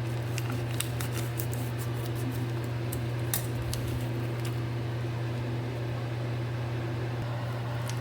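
Steady low electric hum, like a fan running, with scattered light clicks and crackles from frozen lo mein starting to cook in a pan.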